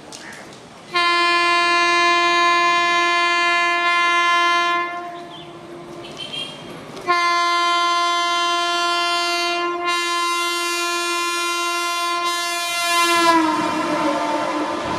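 Indian Railways electric locomotive horn sounding two long blasts, the first about four seconds, the second about six, its pitch dropping at the end of the second as the train passes at speed. The rush and clatter of the passing train follows.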